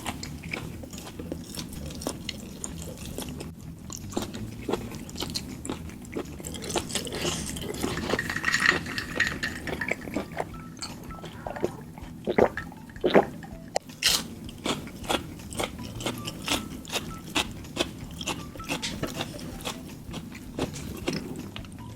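Close-miked chewing and biting of food, with a steady run of crisp, irregular crunches and wet mouth clicks.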